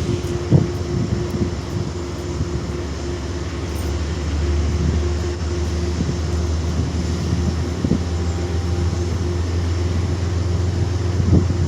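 Locomotive engine running with a steady low drone that grows louder about four seconds in, with a few short knocks along the way.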